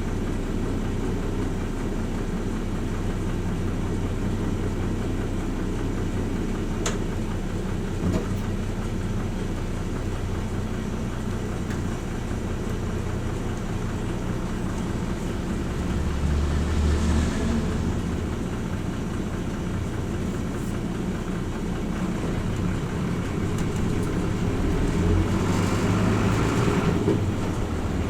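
Cabin running sound of a Hino Rainbow RJ (P-RJ172BA) city bus: steady diesel engine and road noise. It grows louder twice, about halfway through and again near the end.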